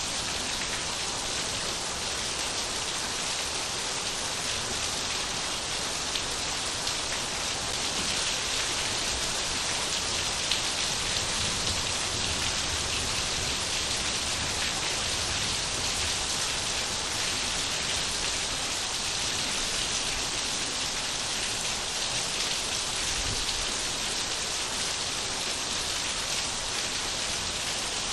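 Steady rain falling, a dense even hiss of many drops landing on the ground and foliage.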